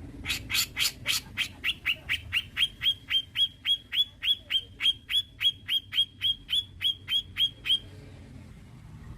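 Cucak jenggot (grey-cheeked bulbul) calling a long, rapid series of sharp notes, about three and a half a second, for about eight seconds. The first few notes are harsh; the rest are quick, falling chips, all alike, before the series stops near the end.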